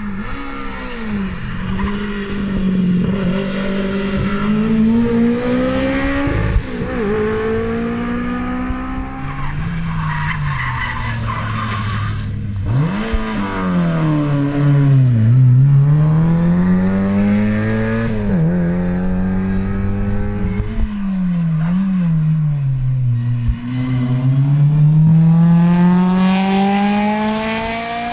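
Rally car engines working hard through hairpin bends. Their pitch repeatedly climbs under acceleration through the gears, then drops sharply on braking and downshifts before climbing again.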